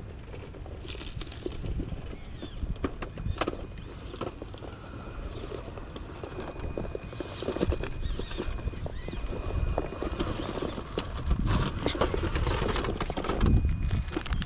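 An RC crawler truck clattering and crunching over rough ground: many quick clicks and patters, with repeated high, wavering squeaky chirps.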